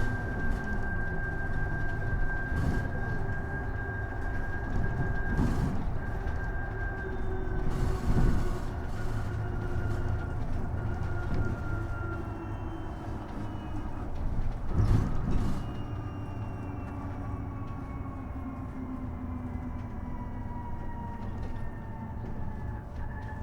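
Isuzu Erga EV electric bus heard from inside the cabin while running: a thin electric-motor whine over steady road rumble. The whine holds steady, then slowly falls in pitch as the bus slows, and starts rising again near the end. A few knocks and rattles come through, the loudest about 15 seconds in.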